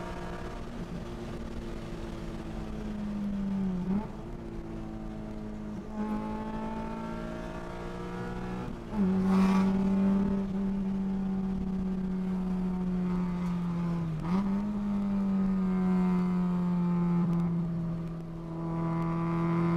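Car engine and road noise heard from inside the cabin while driving at highway speed; the engine's pitch dips sharply and recovers several times, and it gets louder about nine seconds in.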